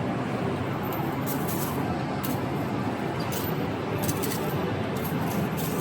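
Steady background din of a busy exhibition hall, with a few brief, sharp clicks scattered through it.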